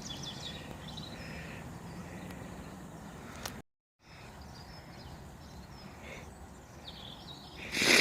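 Small birds chirping over quiet outdoor background noise, with a faint steady low hum in the first half. The sound drops out completely for a moment just before halfway, and a short loud rush of noise comes near the end.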